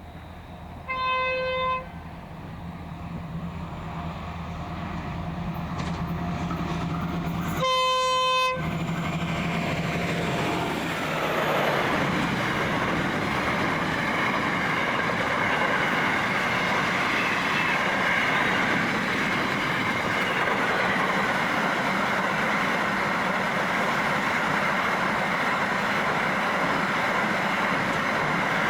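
Freight train led by diesel locomotive CSR012 sounding two horn blasts as it approaches, a shorter one about a second in and a longer one near eight seconds, over the low drone of its engine. From about ten seconds in, the locomotive and container wagons roll past with a steady, loud rumble and wheel clatter.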